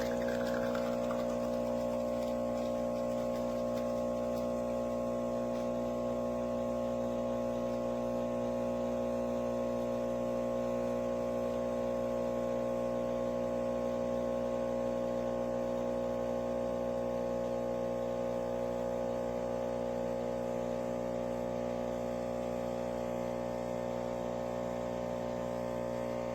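A steady electrical hum made of several fixed tones, unchanging throughout.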